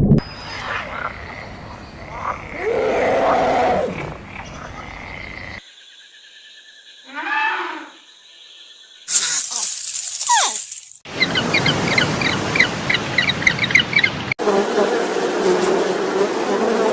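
A string of short clips of different animal calls, each one cut off abruptly before the next begins. One clip is a fast run of short, repeated chirps.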